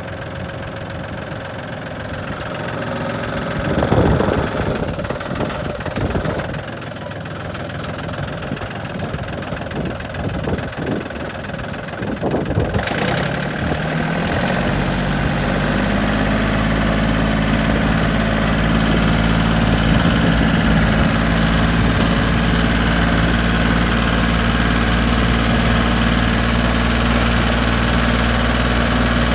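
Tractor engine running. In the first half the sound is uneven, with several louder knocks; from about halfway it settles into a steady, low engine drone.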